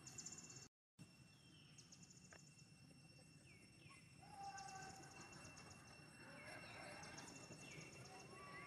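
Faint birdsong: bursts of high, rapid trills repeating every two seconds or so, short downward-sliding chirps and a few whistled notes, over a steady high tone. The sound cuts out completely for a moment just under a second in.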